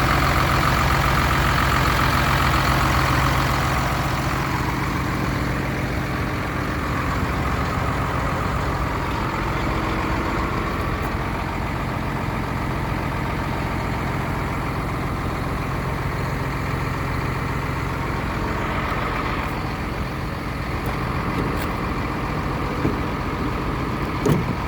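Hino truck's diesel engine idling steadily, a little quieter after about four seconds.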